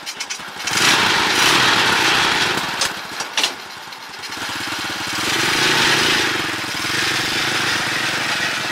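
The restored Honda tricycle's small engine running just after starting, its speed rising and falling unevenly, with a couple of sharp clicks about three seconds in.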